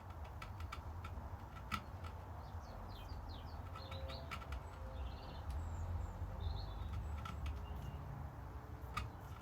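Birds chirping faintly with short high calls, over a low steady rumble, with a few sharp clicks, the loudest about two seconds in and near the end.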